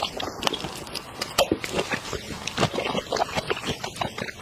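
Close-up mouth sounds of a person chewing peeled prawn meat: irregular wet clicks and smacks in quick succession.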